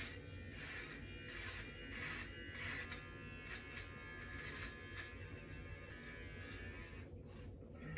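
Electric beard trimmer running with a steady buzz, swelling each time it is passed through beard hair. It switches off about seven seconds in.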